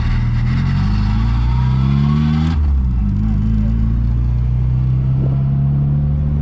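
MG Midget sports car's engine accelerating, heard from the open-top cockpit: the revs climb for about two and a half seconds, break briefly at a gear change, then pull on steadily at lower revs.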